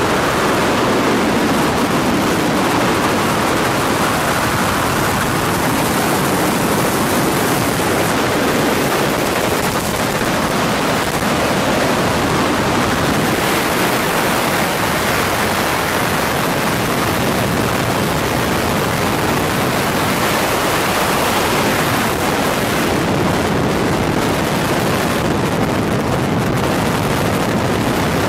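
Steady, loud rush of wind and helicopter noise on the aerial camera's microphone: an even roar with no clear pitch or separate events.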